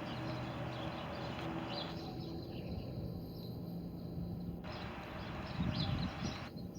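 Outdoor ambience: scattered faint high chirps, like small birds, over a steady low hum and hiss, with a few low rumbles of wind or handling on the microphone near the end.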